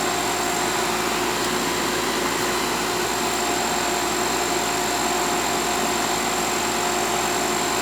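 Outdoor air-conditioning condenser unit running steadily, compressor and condenser fan on: an even rushing noise with a constant hum and a faint high whine.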